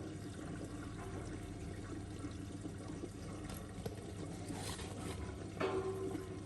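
Miele W1 washing machine taking in water at the start of a cycle, water running and trickling steadily into the machine.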